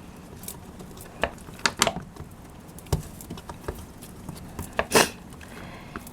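Scattered sharp taps and clicks of seagulls pecking at bread and pork on a hard surface, a few irregular knocks over several seconds, the loudest about five seconds in.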